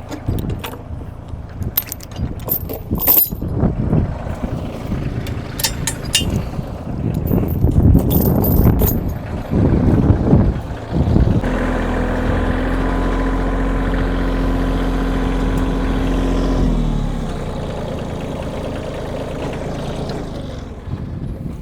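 Tractor diesel engine running, with irregular metal clanking and rattling for the first half. Then the engine holds a steady drone, which drops to a lower, quieter hum about three-quarters of the way through.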